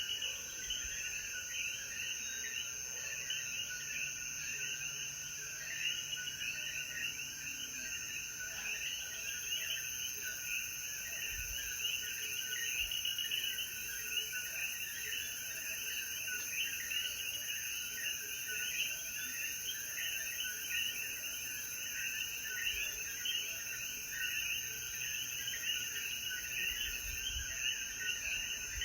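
A dense chorus of coquí frogs, many short overlapping chirps calling without a break, over a steady high insect drone.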